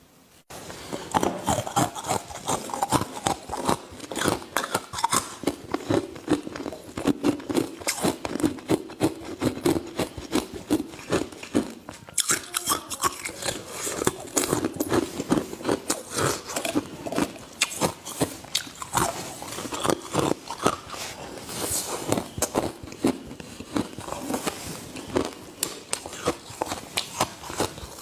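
A person biting and chewing ice close to the microphone: a dense, irregular run of sharp crunches and cracks that starts about half a second in.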